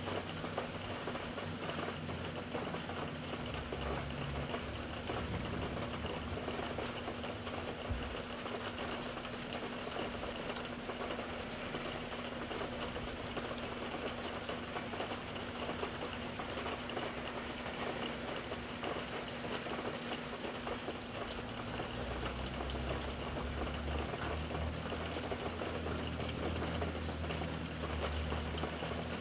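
Steady rain falling, a dense patter of drops over a faint steady hum. A low rumble swells about four seconds in and again near the end.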